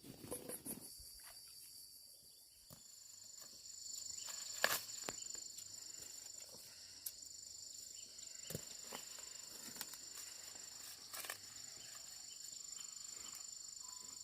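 Insects singing in a steady high-pitched chorus, with scattered clicks and rustles; the loudest is a sharp knock nearly five seconds in.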